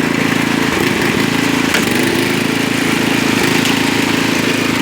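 Single-cylinder Briggs & Stratton 8 HP engine of a 1972 Canadiana 26-inch snowblower running steadily, its speed wavering briefly about a second in. The carburetor has a slow leak, and the mixture has been leaned by hand to keep the engine running.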